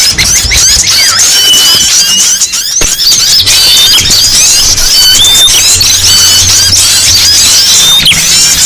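A dense chorus of many small songbirds, such as prinias, chirping and twittering over one another without a break, the kind of noisy flock recording used as a bird lure.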